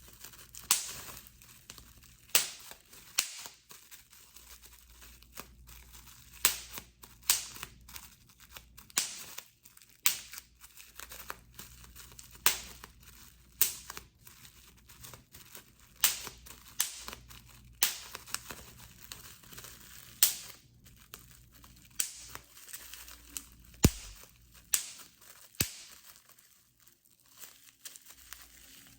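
Bubble wrap being popped one bubble at a time: sharp pops at irregular intervals, roughly one a second, with the plastic sheet crinkling in between.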